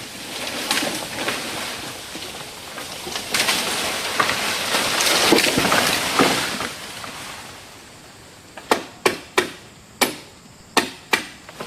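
A spell of loud rustling, scraping noise, then, from about three-quarters of the way in, a run of about six sharp knocks a fraction of a second apart, each ringing briefly.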